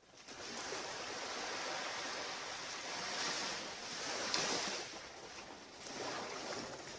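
Ocean surf washing onto the beach, a steady hiss of breaking waves that swells to a peak about four seconds in and again near the end.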